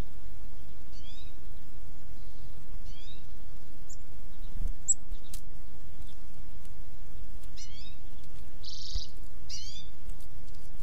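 Wild songbirds calling: short chirps that slide downward in pitch, heard about a second in, about three seconds in and again near the end, with a few thin high chips and one harsh rasping call about nine seconds in, over a steady low rumble.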